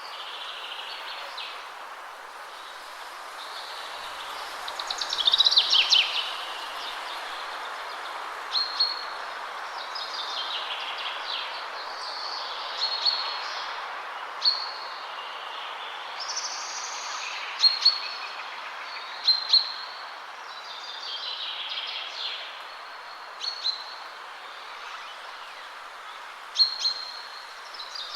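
Steady wind rushing through trees, with several songbirds singing over it in short high chirps and trilled phrases, one louder burst of song about five seconds in.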